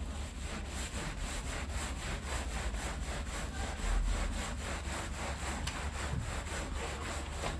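Stiff brush scrubbing a rug's pile in quick, even back-and-forth strokes, about four a second.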